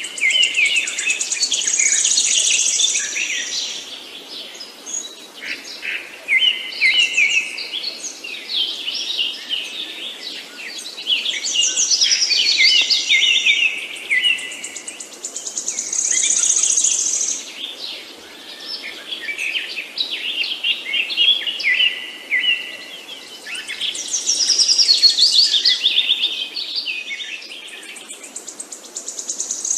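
Songbirds singing, with bursts of rapid chirps and trills every few seconds and the phrases overlapping one another.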